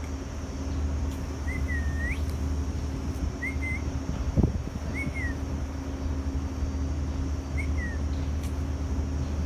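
A bird giving four short whistled calls a couple of seconds apart, each a brief slurred note, over a steady low hum. A single low thump comes about halfway through.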